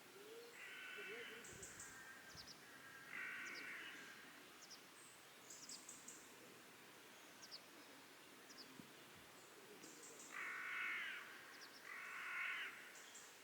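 Harsh bird calls, four of them in two pairs, one pair near the start and one near the end, with faint short chirps of smaller birds between them.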